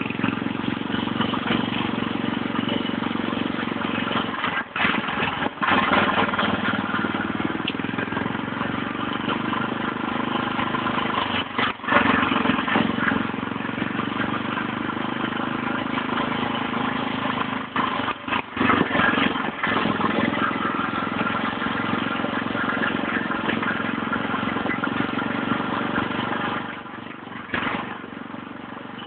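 Motorcycle engine running steadily while riding a dirt trail, with brief drops in throttle a few times and quieter running near the end.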